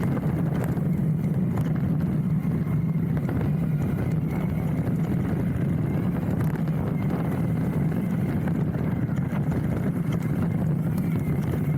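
Hardtail mountain bike riding down a dirt flow trail, heard through a handlebar-mounted camera: a steady rumble of tyres rolling over the trail, with frequent small rattles and clicks from the bike.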